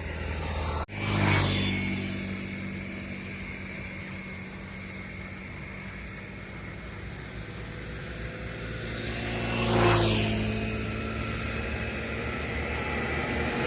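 Road vehicles passing close by: one swells and fades about a second in, right after a brief cut-out, and another passes about ten seconds in, with a steady engine hum between them.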